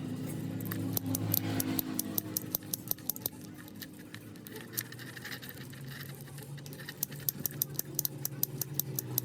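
Keys and a motorcycle ignition switch being handled: many irregular sharp metallic clicks and small rattles, over a low steady hum.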